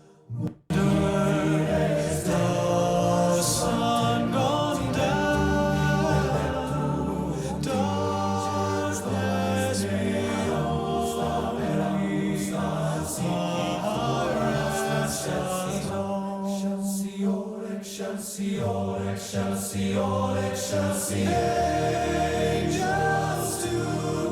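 Recorded choral singing played through Elfton Vegas II hi-fi loudspeakers. It starts after a brief silent gap between tracks and carries on without a break.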